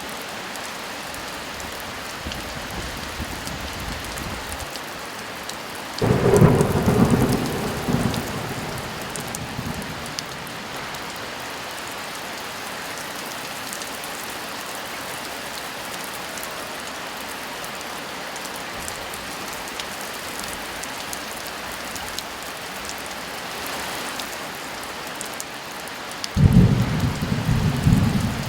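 Steady heavy rain with two sudden peals of thunder, one about six seconds in that rumbles away over a few seconds and another near the end.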